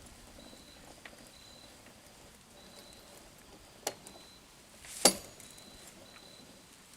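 Two sharp clicks, the second louder, about a second apart, from hands working on hunting gear, with faint short high chirps repeating in the background.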